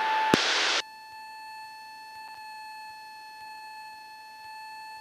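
Aircraft radio and intercom audio as a transmission ends: a click and a brief burst of static under a second in, then a faint, steady high-pitched electronic whine on the line.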